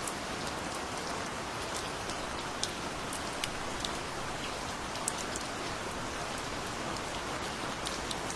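Steady gentle rain falling, a constant hiss with scattered individual drops ticking sharply on a surface.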